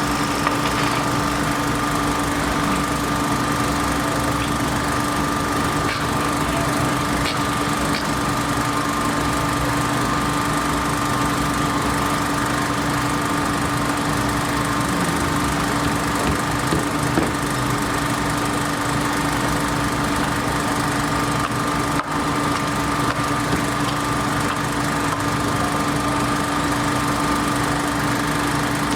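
A machine or engine running steadily with an unchanging hum, a low tone and a higher whine holding constant throughout, with a few faint clicks.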